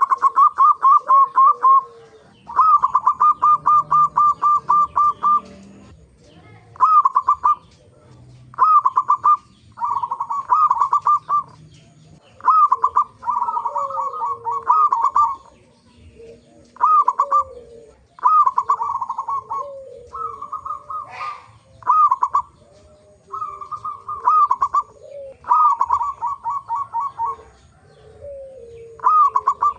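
Zebra dove (perkutut) cooing: loud phrases of quick, rolling repeated notes, one every second or two, with softer, lower sliding notes between them.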